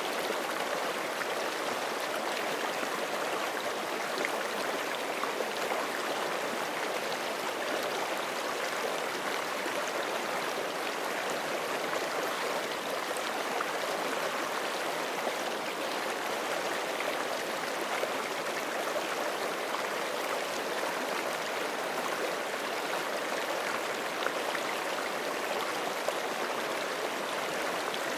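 Forest creek water flowing over rocks, a steady rushing with small splashes and gurgles.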